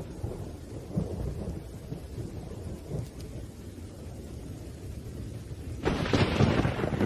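Thunder rumbling low and unevenly over steady rain, then a louder, brighter peal of thunder about six seconds in.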